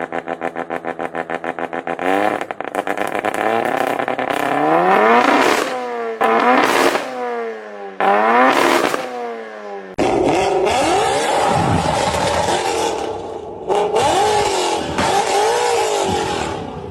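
A vehicle engine idling with an even, lumpy pulse, then revved hard three times, its pitch climbing and dropping with each rev. About ten seconds in, a cut brings a different engine, revving in a wavering pitch.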